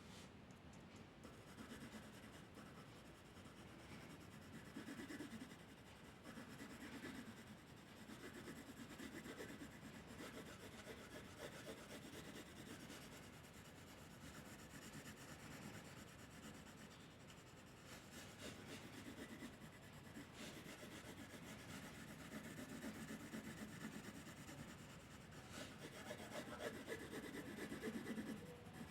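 Faint rubbing strokes of a drawing medium on paper, coming in uneven swells every second or two as an area is coloured in.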